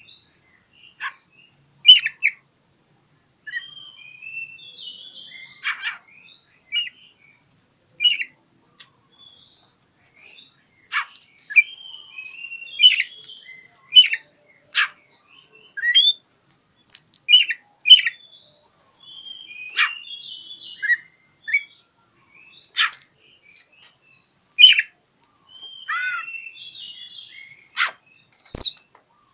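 Oriental magpie-robin singing a varied run of short whistled phrases and sharp chirps with brief pauses between them: the bird's challenge song, as if calling out a rival.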